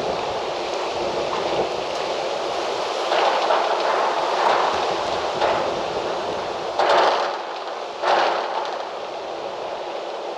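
Wind blowing in gusts, a rushing noise that surges several times, most strongly about seven and eight seconds in.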